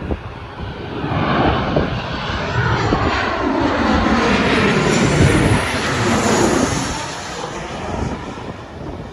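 Boeing 737-800 jet airliner passing close by. Its engine roar builds to a peak about five seconds in and then fades, while its whine falls steadily in pitch as it goes past.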